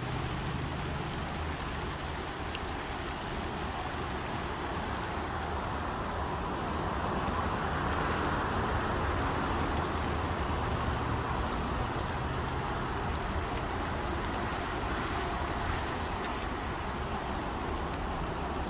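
Steady road traffic noise with a low rumble; about a third of the way in a vehicle swells past, loudest around the middle, then fades back into the hum.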